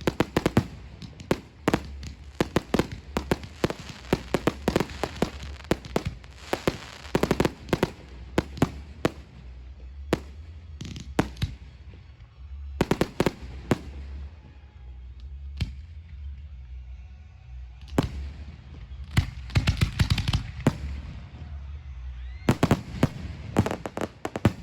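Aerial fireworks display: many irregular sharp bangs of bursting shells with crackling between them. It eases off briefly in the middle, then builds to dense clusters of bangs near the end.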